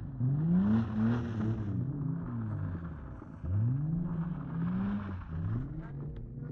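Car engine revving hard in repeated surges, its pitch climbing and dropping, as a car is driven hard on a snow-covered lot.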